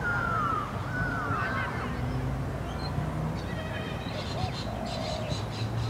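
Birds calling over a steady outdoor background: short falling squawks in the first two seconds, then a fast chattering run of high calls from about two-thirds of the way through.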